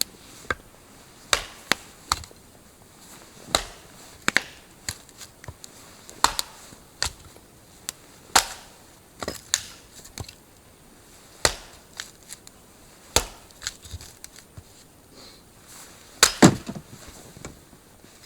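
Firewood cracking and snapping: irregular sharp wooden cracks, roughly one a second, with a cluster of louder ones near the end.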